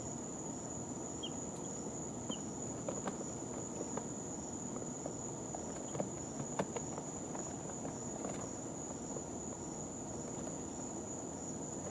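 A steady high whine and a low hum fill the chicks' brooder. Over them come scattered light taps, fitting chicks shifting in their bedding, and two faint, very short chick peeps in the first few seconds.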